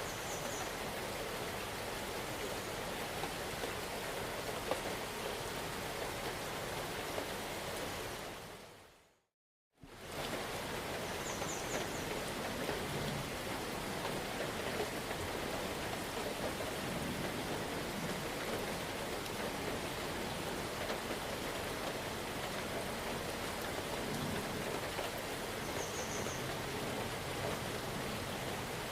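Steady rain, a continuous even hiss. About eight seconds in it fades away to silence and then cuts back in abruptly a second or so later. A few faint, brief high chirps sound at three points.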